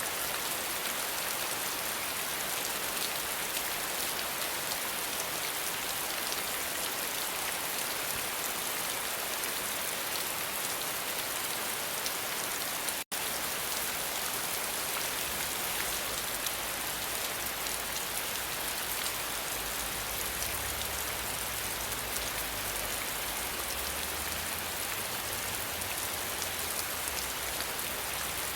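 Steady rain falling on a surface: an even hiss full of small drop patters. The sound cuts out for a split second about thirteen seconds in, and a faint low rumble comes and goes in the second half.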